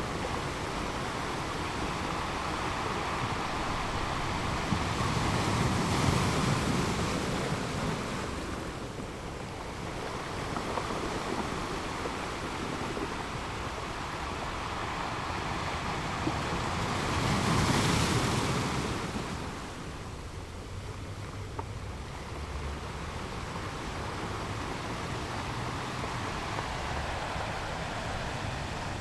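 Sea waves breaking on a beach: a steady wash of surf that swells into two louder breakers, about twelve seconds apart.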